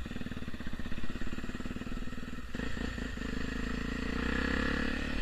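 Honda XR250 Tornado's single-cylinder four-stroke engine through a Protork aftermarket exhaust, running at low revs with even, rapid pulses. About two and a half seconds in, the bike pulls away and the engine note rises steadily.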